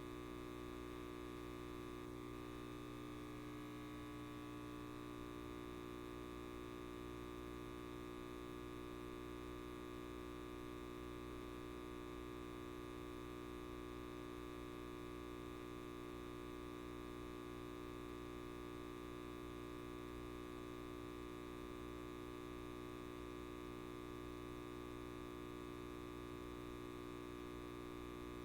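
Light bulb buzzing: a steady electrical mains hum made of many even tones, holding unchanged throughout.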